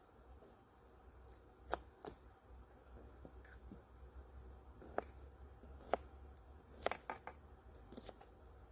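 Knife cutting vegetables on a chopping board: a handful of sharp, irregular knocks over faint rustling.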